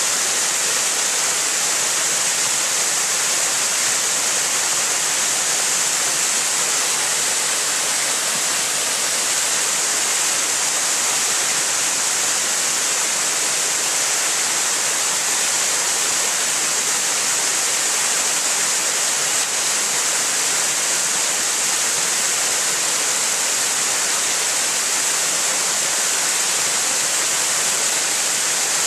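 Minnamurra Falls: a waterfall's steady, unbroken rush of falling water.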